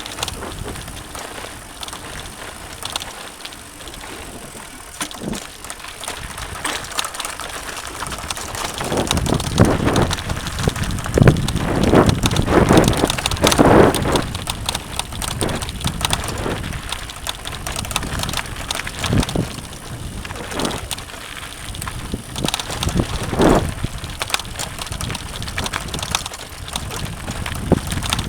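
Mountain bike riding over a dirt trail: tyres rolling on the ground and the bike rattling, louder and rougher for several seconds around the middle and again briefly later.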